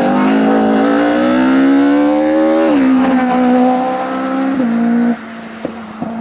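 Hillclimb race car engine under full throttle, rising in pitch and dropping sharply at an upshift about two and a half seconds in and again near four and a half seconds. Around five seconds in the throttle lifts and the sound falls away, with two sharp cracks, before the engine picks up again at the end.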